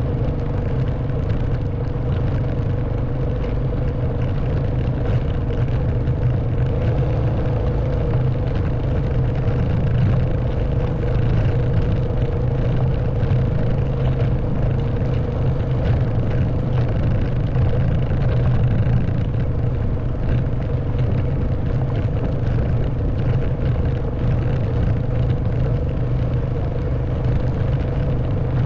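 Honda Wave 110cc underbone motorbike's single-cylinder four-stroke engine running steadily while riding, an even low rumble with no change in engine speed.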